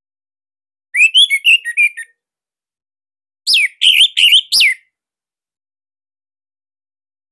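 Orange-headed thrush (anis merah) singing: a short, rapid warbling phrase about a second in, then a burst of four loud, sharp notes that sweep steeply downward, followed by a pause.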